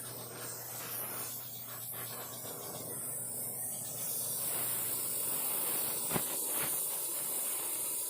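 Oxy-acetylene welding torch flame hissing steadily, growing brighter about halfway through, with one sharp click a little after six seconds.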